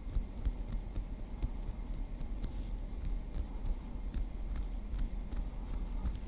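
Light taps of a small wooden stick, short crisp clicks at about three a second in an uneven rhythm, over a low steady rumble.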